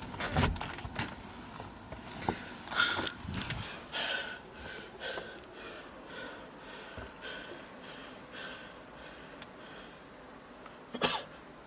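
A door being shut with a thump about half a second in, then a few knocks and handling noises, followed by a run of soft, short sounds about every half second.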